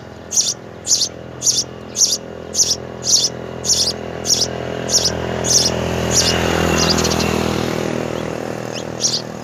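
A small bird chirping: short, high chirps repeated evenly about twice a second, pausing for a few seconds after the middle and starting again near the end. A low rumble swells and fades under the chirps in the middle.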